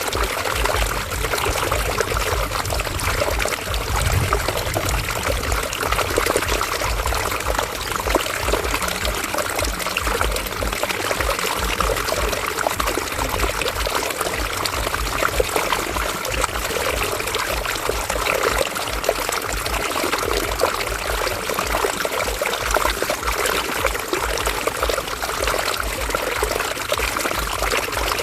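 River water flowing and splashing in a steady, dense rush with fine bubbling trickles.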